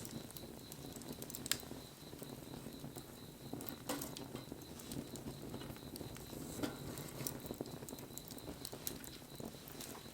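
Wood fire burning, crackling with scattered sharp pops; a louder pop about one and a half seconds in and another near four seconds.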